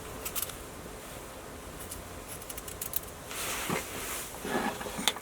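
Light handling sounds, as of cooking gear and supplies being picked up and set out: a few scattered small clicks and soft rustling, with a steady low hum under them.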